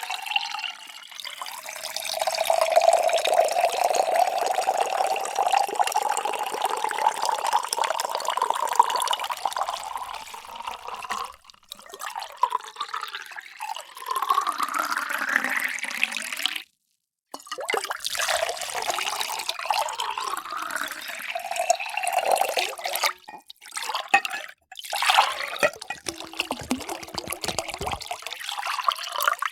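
Water poured into drinking vessels in several separate pours with short breaks between them. The pitch of each pour rises as the vessel fills.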